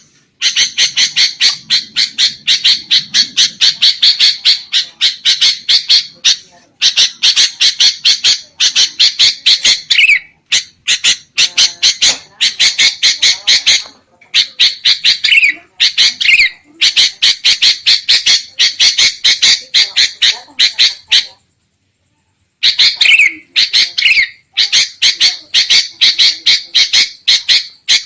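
Sooty-headed bulbuls (kutilang) giving fast, harsh chattering calls, about six or seven sharp notes a second in runs broken by short gaps, with a full stop of about a second three-quarters of the way through. This is the agitated, noisy 'ribut' bulbul chatter that is played as a trapping lure.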